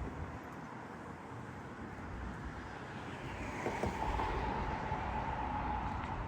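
Street traffic passing, with a low rumble of engines and tyres. A little over halfway through, a steady high whine starts and holds as the traffic grows louder.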